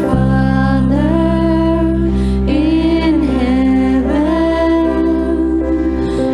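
Worship song sung as a prayer: a voice singing a slow melody over sustained accompanying chords, with the chord changing near the end.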